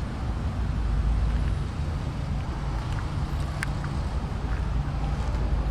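Citroën C-Crosser running: a steady low rumble with a constant hum and a few faint ticks.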